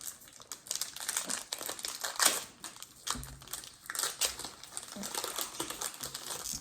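Pokémon trading card booster pack being torn open and handled, its foil wrapper crinkling and crackling irregularly, loudest a little over two seconds in.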